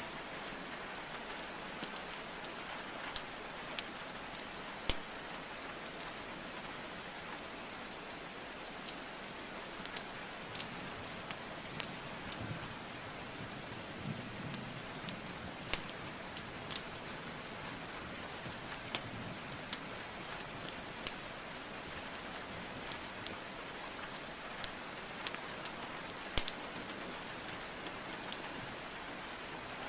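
Steady rain hiss with a wood fire crackling over it: sharp, irregular pops from burning logs, several every few seconds.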